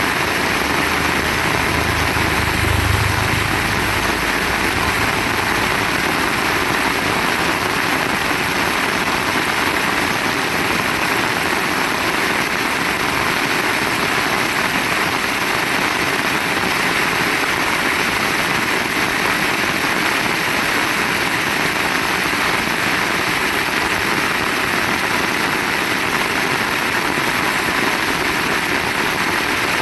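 Heavy rain pouring steadily, with a brief low rumble about two to three seconds in.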